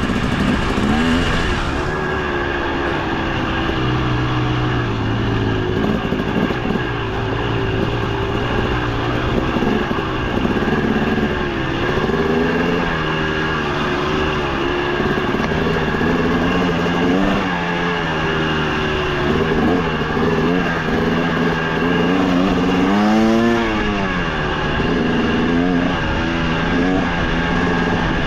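Two-stroke KTM 300 XC TBI dirt bike engine being ridden, its revs rising and falling continuously with the throttle, with one quick sharp rev up and back down near the end.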